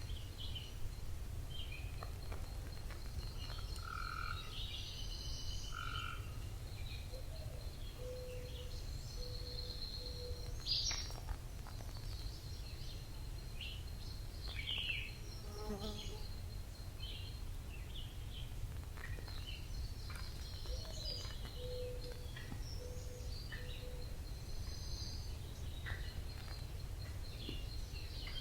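Forest birds singing and calling, with many short chirps and whistles overlapping, over a thin steady high buzz and a low steady rumble.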